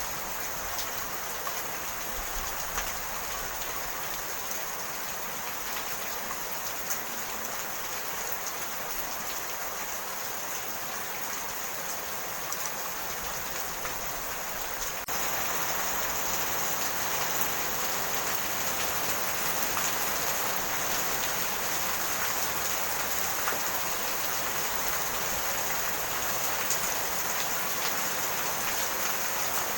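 Steady rain falling, a dense even patter with scattered small drop ticks. It becomes suddenly louder about halfway through and stays at the louder level.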